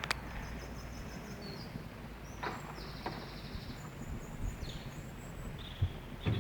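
Small birds singing and chirping over a steady outdoor hiss, with a faint knock about two and a half seconds in and another near the end.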